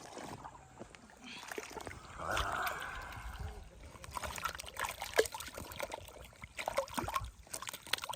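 Water splashing and trickling, with a longer splash about two seconds in and scattered sharp knocks and clicks throughout.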